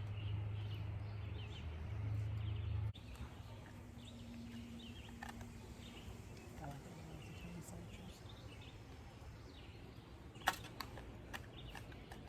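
Campsite ambience with faint, scattered bird chirps. A low rumble runs for about the first three seconds and cuts off abruptly, and there is a single sharp click about ten and a half seconds in.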